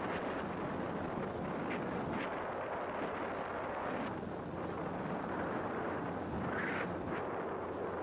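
Steady rushing rumble of wind buffeting the microphone, with a few faint brief higher sounds now and then.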